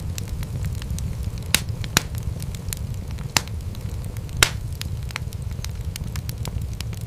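Wood fire crackling in a fireplace: a steady low rumble of flames under a stream of small ticks, with a few louder sharp pops scattered through.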